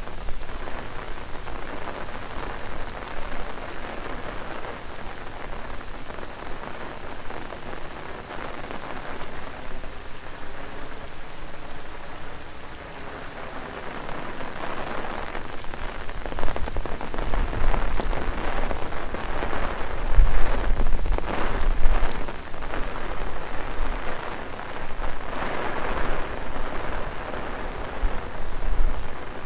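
Heavy rain falling on an umbrella, with a steady high drone of cicadas behind it. The rain hits grow louder and busier in the second half.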